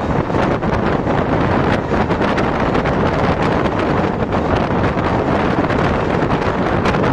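Loud, steady rush of wind buffeting the microphone held out of a moving passenger train, over the running noise of the coach's wheels on the rails, with many short crackles.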